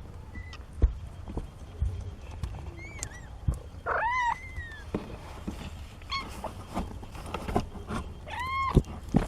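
Young kittens mewing: about five short, high calls that rise and fall in pitch, the loudest about four seconds in and another near the end, with a few soft knocks between them.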